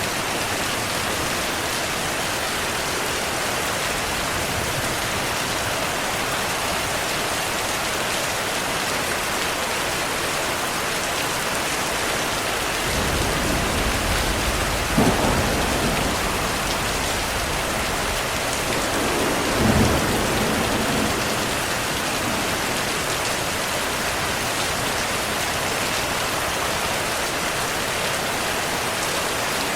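Steady rain with thunder. About halfway through, a low rumble of thunder rises, with two louder peaks a few seconds apart, then dies away under the rain.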